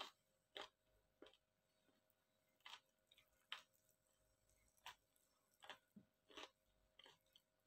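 Close-up eating sounds of someone chewing rice and fried chicken: soft wet mouth clicks and smacks, about a dozen, coming at irregular intervals.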